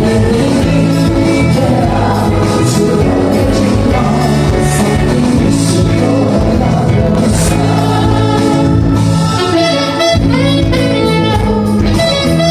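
Live band playing a song, loud full-band music.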